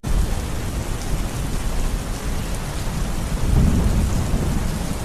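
Steady rain falling in a forest, with a low rolling thunder rumble that swells about three and a half seconds in. The sound drops out for a split second at the very start.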